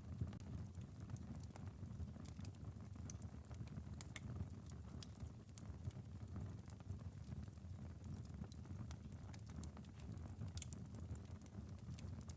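Wood fire crackling in a fireplace: irregular sharp pops and snaps over a steady low rumble, with the soft patter of light rain on a window.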